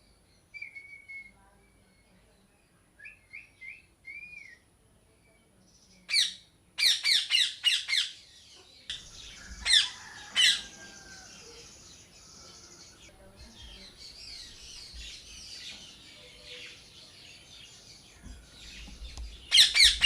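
Parrots calling: a few soft whistled chirps, then loud runs of rapid, harsh squawks about six seconds in, two more squawks near ten seconds and another rapid run near the end. Other small birds chirp faintly in the background between the squawks.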